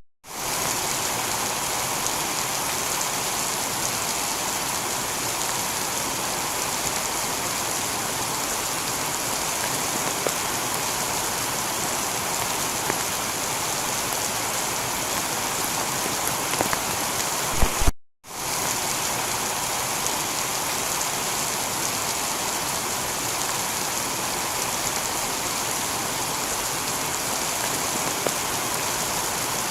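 Heavy rain falling steadily on a tiled roof: an even hiss with occasional sharper drop splashes. The sound cuts out for a split second a little past halfway, then resumes.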